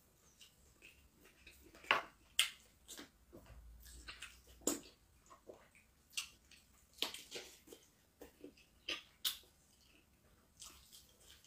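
Close-up eating sounds: wet chewing and lip-smacking with irregular sharp clicks, as chicken in pepper soup and fufu are eaten by hand.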